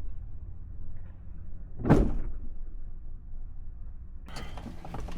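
A truck door slams shut once, hard, about two seconds in, over a steady low rumble. Rustling and light clicks follow near the end.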